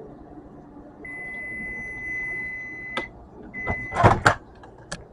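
Microwave oven finishing its cooking cycle: the running hum stops about a second in and it gives a long steady beep, then a click, a shorter beep, and two loud clacks as the door is opened.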